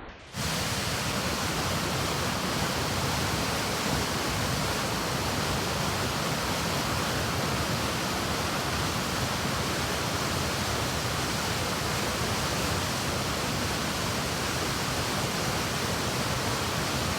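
Rushing water of the River Nyamindi at a waterfall: a steady, even rush with no change. It starts abruptly just after the beginning.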